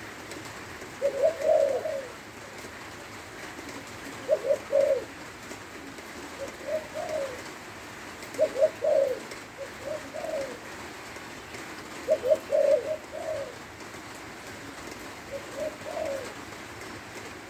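Spotted dove cooing: short phrases of low coos, repeated about every two to four seconds.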